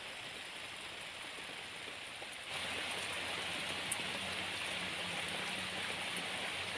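Steady hiss of background noise, like rain, that steps up in level about two and a half seconds in, with a faint hum and a single small click.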